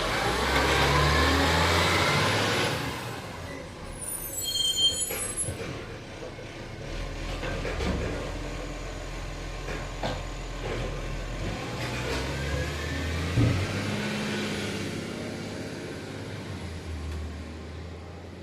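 Garbage truck's diesel engine running, its pitch rising and falling as it revs, with hissing from the air brakes and a sharp knock about thirteen seconds in.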